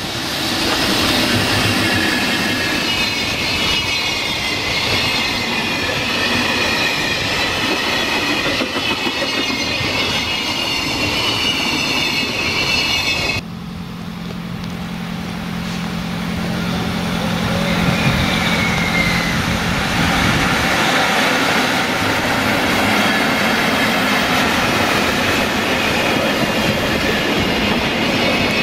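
EF65 electric locomotive hauling a container freight train passing close by, its wheels rolling and clattering on the rails with a high-pitched squeal in the first half. After an abrupt change about thirteen seconds in, a steady low hum comes from the locomotive as it approaches, then the container wagons roll past.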